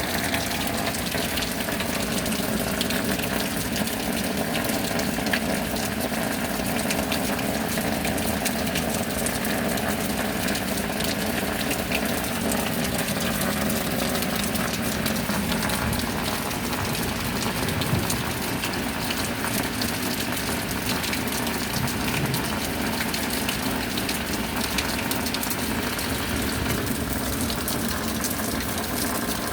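Steady rain falling, with a constant rush of water under a fine patter of drops.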